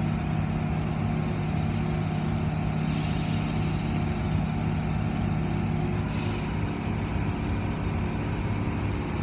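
A steady mechanical hum, with a rush of hiss from about a second in and again about six seconds in.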